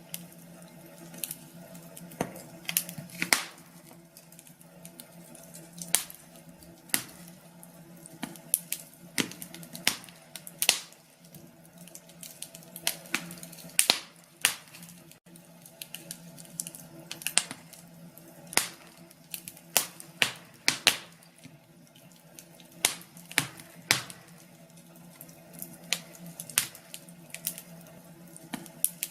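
Wood fire crackling in a fireplace: irregular sharp pops and snaps over a faint steady hum.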